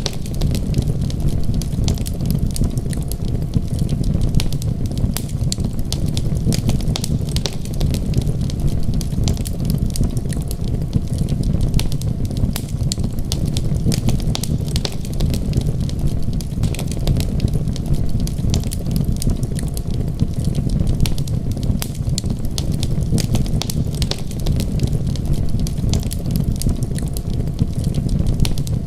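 Wood fire crackling with many small sharp pops, over a steady low rumble.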